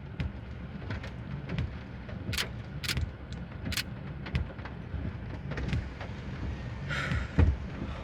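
Low steady rumble of an idling vehicle, with scattered sharp clicks and knocks and a short hiss about seven seconds in.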